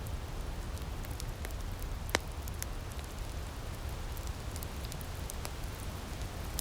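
Wood fire in an outdoor firepit crackling: scattered small pops and ticks over a steady hiss, with one sharper, louder pop about two seconds in.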